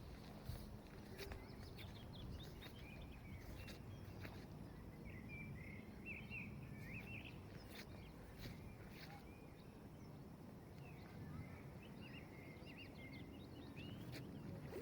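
Small birds twittering in two spells over a steady low outdoor rumble, with a few faint scattered clicks.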